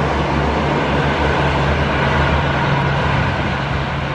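Indian Railways passenger train running past, a steady rumble of the coaches on the track with a low steady hum beneath it, easing slightly near the end.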